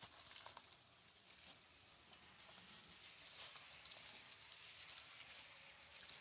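Near silence: a faint steady hiss with scattered soft, irregular ticks.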